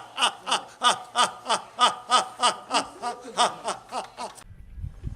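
Hearty laughter in evenly spaced 'ha' bursts, about three a second, each dropping in pitch, stopping about four and a half seconds in.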